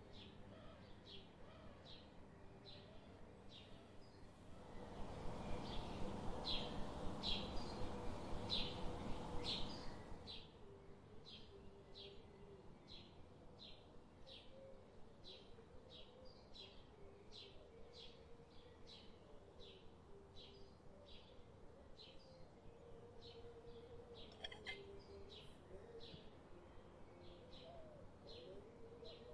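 A bird chirping over and over, one short high chirp a little more than once a second, with a faint steady hum beneath. A louder rush of noise swells in about five seconds in and fades out about five seconds later.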